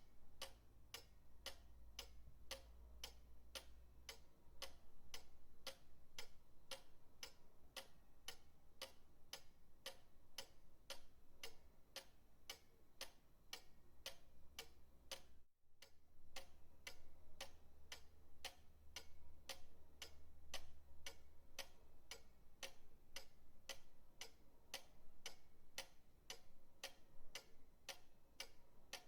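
Pendulum clock ticking in a steady, even rhythm of sharp ticks, about three a second, with a brief dropout about halfway through.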